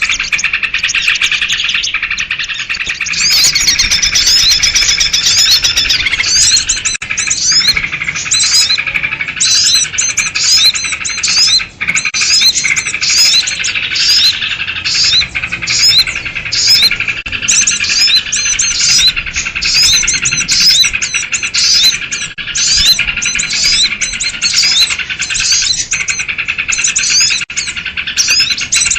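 Flock of birds calling noisily together, sold as agitated sooty-headed bulbuls (kutilang), in a lure recording for small birds. A dense, continuous chatter, with sharp repeated chirps on top from about three seconds in.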